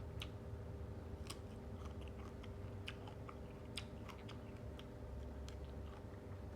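A person chewing and eating spicy instant-noodle seafood salad, with small wet mouth clicks at irregular intervals over a steady low hum.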